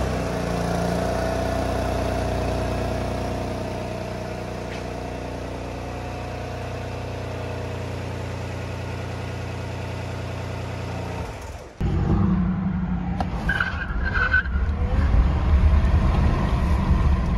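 Karma GS6 Sport's 1.5-litre turbocharged three-cylinder generator engine running, a steady droning hum that eases slightly a few seconds in. About twelve seconds in it cuts to the car driving at speed, heard from inside the cabin as a louder, uneven rumble of motor and road noise.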